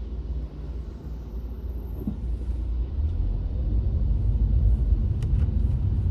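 Low rumble of a moving car heard inside its cabin, growing louder about halfway through, with a faint click near the end.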